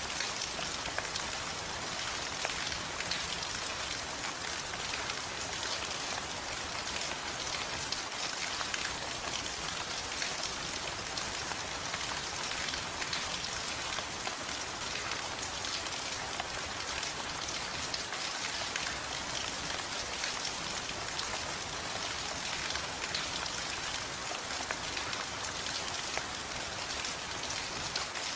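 Steady heavy rain falling on a surface, a dense even hiss of drops with no pauses.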